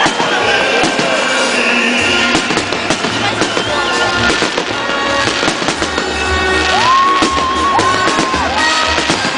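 Fireworks salute: repeated bangs and crackle of bursting shells throughout, with music playing at the same time, a melody of held notes clearest in the second half.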